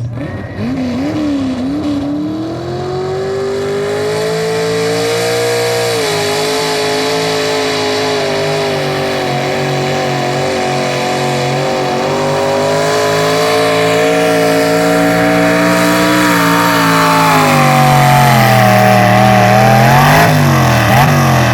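Pulling truck's engine running hard at high revs under load through a pull. The revs climb at the start, hold high for most of it, then fall away near the end with a couple of quick blips of the throttle.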